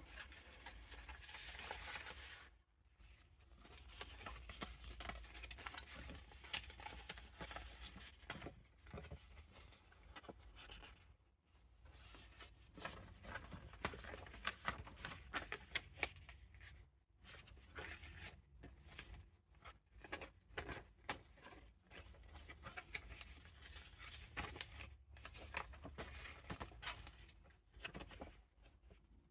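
Paper rustling and crinkling as the pages and tucked-in vintage paper ephemera of a handmade junk journal are turned and handled, with a few short pauses between handlings.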